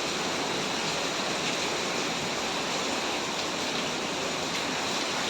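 Hurricane-force wind with driving rain: a steady, even rushing noise with no single gust standing out.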